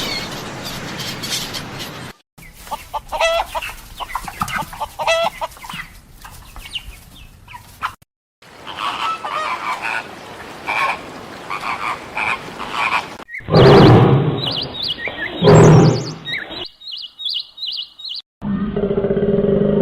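A run of short animal-call clips spliced one after another, with abrupt cuts between them, among them chickens clucking. The loudest calls come in the clip that starts about two-thirds of the way in.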